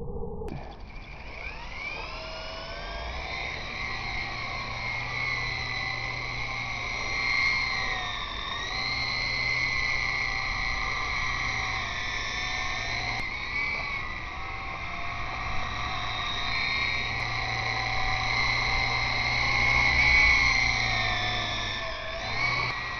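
E-flite Blade CX2 coaxial RC helicopter's electric motors and rotors whining in flight. The pitch rises over the first couple of seconds, then holds, wavering up and down throughout.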